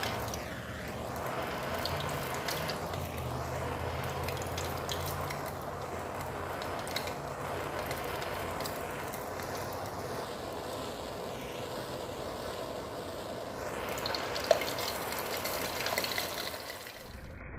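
Diesel fuel boiling as it is heated: a steady bubbling sizzle with scattered small pops, and one sharp pop near the end.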